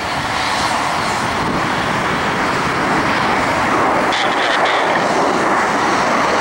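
McDonnell Douglas MD-82 airliner departing, its rear-mounted Pratt & Whitney JT8D turbofans at takeoff power: a loud, steady jet roar that grows slightly louder.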